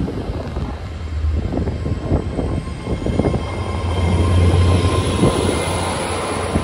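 GWR Class 800 bi-mode intercity train pulling out of the station on its underfloor diesel engines, which give a steady low hum. A thin high whine rises as it gathers speed, over the rumble and clatter of the wheels as the coaches pass.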